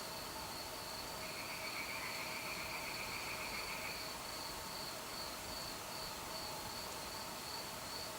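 Crickets chirping in a steady, even pulse, with a second, lower insect trill joining for about three seconds starting about a second in.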